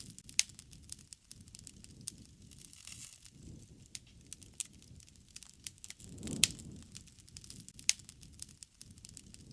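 Wood fire crackling: scattered sharp pops and snaps, the loudest about two-thirds of the way in, over a low rush of flames that swells and fades.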